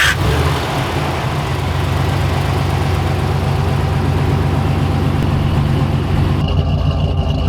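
Car engine idling with a steady, pulsing low rumble just after starting up.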